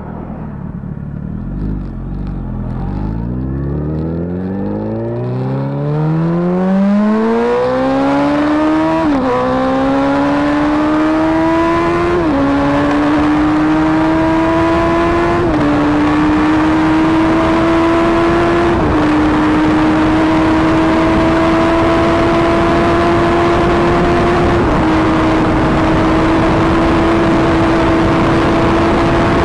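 Big motorcycle engine accelerating hard: the revs climb steeply, then it shifts up through the gears five times, the pitch dropping at each shift about every three seconds. The last shift comes later, near the end, and the engine then runs at a high, nearly steady pitch.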